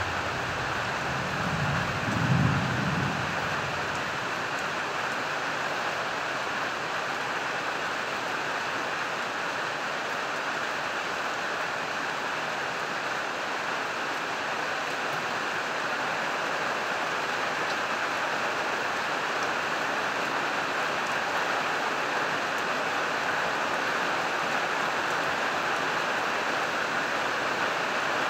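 Heavy summer rain falling steadily on a corrugated roof and the surroundings, with a short low rumble of thunder about two seconds in.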